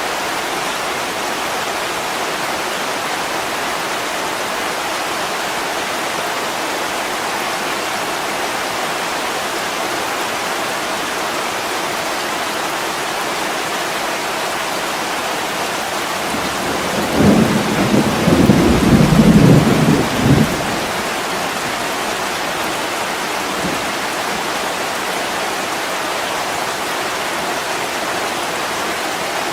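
Heavy rain pattering steadily on window glass. A low rumble of thunder rises over the rain a little past halfway and fades after about three seconds.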